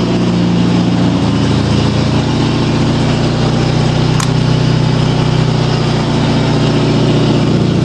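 A lawn tractor's opposed-twin engine idling steadily. There is a single sharp click about four seconds in.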